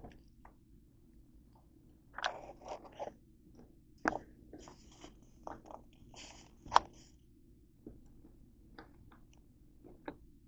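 A person biting into and chewing crunchy pretzels: a run of irregular crisp crunches starting about two seconds in, thinning to scattered soft chewing clicks near the end.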